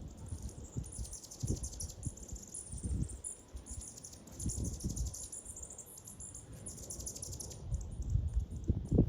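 High, thin bird chirps and twitters, packed closely together, over irregular low rumbles that are loudest near the end.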